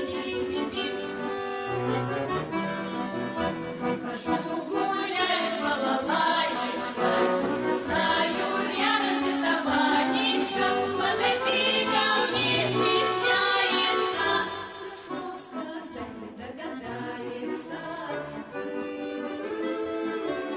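Folk music on accordion, with a group of voices singing over it from about four to fourteen seconds in; after that the music goes on more quietly.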